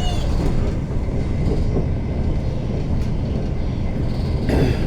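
Electric passenger train running at speed, heard from inside the carriage: a steady low rumble of wheels on track, with a brief squeal right at the start and a short sharper noise near the end.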